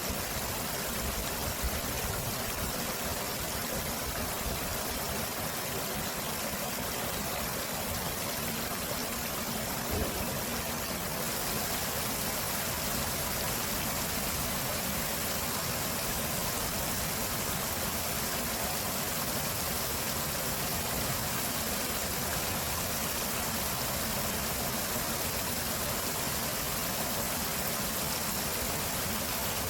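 Stream water flowing and splashing in a steady, even rush, with a small knock about ten seconds in.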